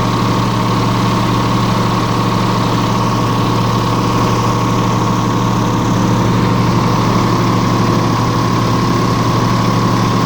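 Airboat engine and propeller running at a steady speed, a loud even hum with a fixed pitch.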